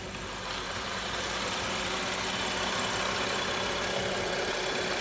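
BMW N55 turbocharged inline-six idling steadily, growing a little louder over the first second or two. It runs smoothly and quietly, with no knocking, ticking or tapping: a sign the new spark plugs are firing without misfires.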